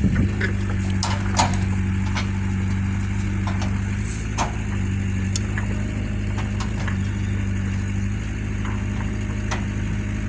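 Engine idling steadily, with a few scattered sharp clicks and knocks over it.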